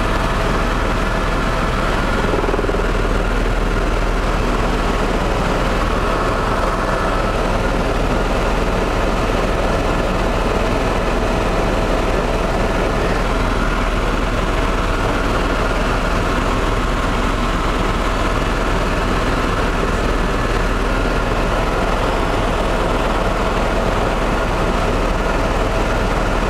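Tour helicopter in flight, heard from inside the cabin: a loud, steady drone of rotor and turbine with a deep rumble and a few steady whining tones, unchanging throughout.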